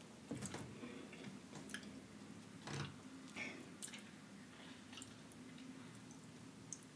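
A person chewing a mouthful of seafood close to the microphone: faint, wet squishing and smacking mouth sounds with scattered small clicks.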